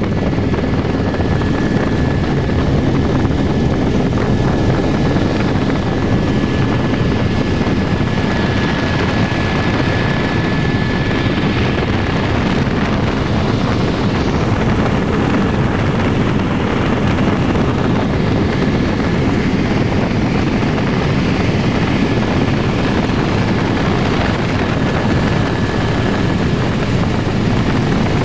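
Helicopter running steadily: a constant heavy rotor and engine noise with a thin, steady high whine over it.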